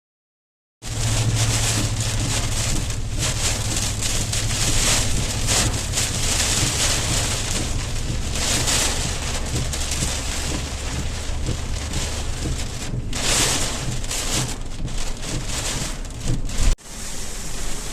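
Heavy rain pouring in a storm, with wind buffeting the microphone as a low rumble. It starts abruptly just under a second in and drops out briefly near the end.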